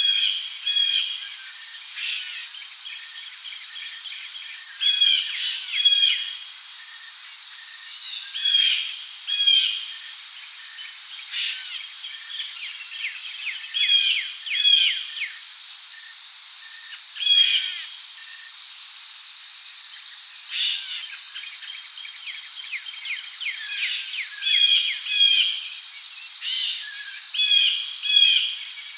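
Rainforest ambience: a steady, high-pitched drone of crickets runs under bird calls. The calls come in short clusters of quick repeated notes every one to three seconds.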